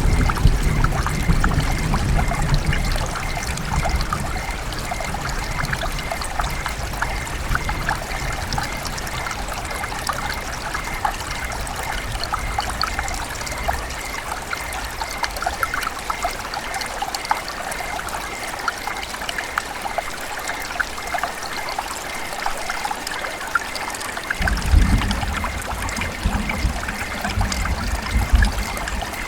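River water running and trickling with a steady babble. A low rumble comes through in the first few seconds and again near the end.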